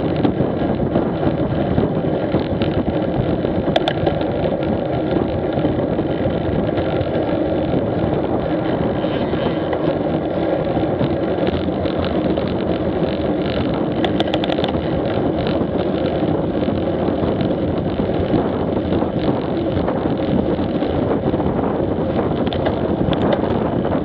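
Motorcycle engine running steadily while riding, with wind rushing over the mounted action camera's microphone. A couple of brief clicks cut through about four seconds in and again midway.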